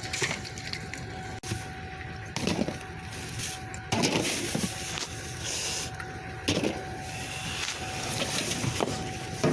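Rummaging through a dumpster: rustling with several knocks and clunks as drink bottles, cans and other junk are shifted and handled. A faint steady whine runs underneath.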